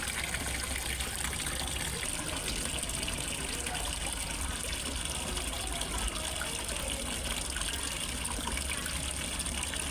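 Water pouring and trickling steadily into a fish pond from a small waterfall, with an even, unbroken splashing.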